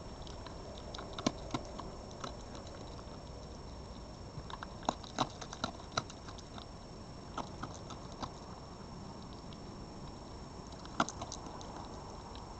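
An animal crunching food: scattered sharp clicks and crunches in small irregular clusters over a steady hiss.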